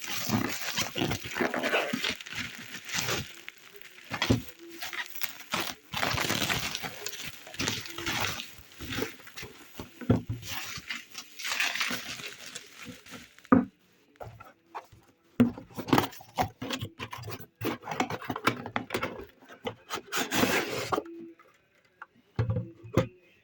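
A parcel being unwrapped: packaging crinkles and rustles for about the first thirteen seconds, then it gives way to scattered clicks and knocks as the contents are handled.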